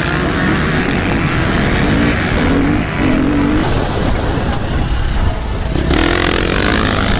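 Motocross dirt bike engines running and revving.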